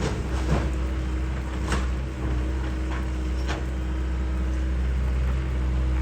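John Deere excavator's diesel engine running steadily, with several sharp knocks and cracks from the machine working debris.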